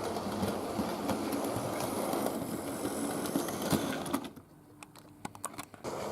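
Model Flying Scotsman locomotive running on a model railway: a steady motor and wheel rumble with small clicks from the track. It drops away for about a second and a half near the end, then comes back.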